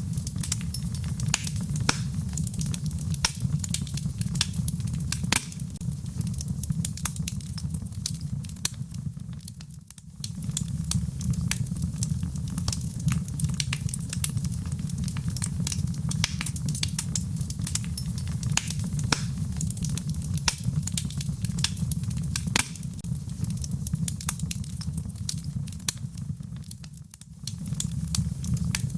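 Campfire burning: a steady low rumble of flames with frequent sharp crackles and pops of burning wood. The sound briefly falls away twice, about ten seconds in and near the end.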